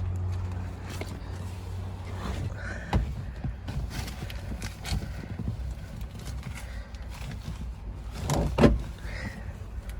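Car door handled while getting in: scattered clicks and knocks, then the loudest thump about eight and a half seconds in, as the door is shut. A low steady hum runs underneath.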